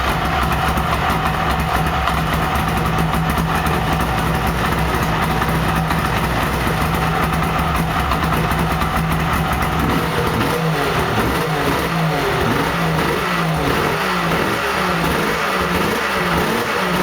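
Yamaha snowmobile engine running on a cold start, holding a steady fast idle. From about ten seconds in, its revs rise and fall over and over.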